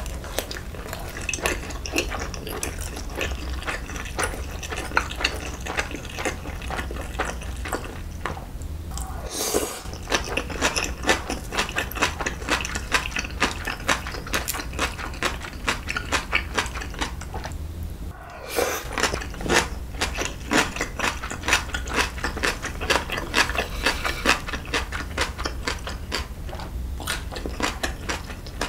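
Close-miked eating sounds of a person chewing dumplings: dense, wet mouth clicks and smacks, with two louder moments about nine and eighteen seconds in, over a steady low hum.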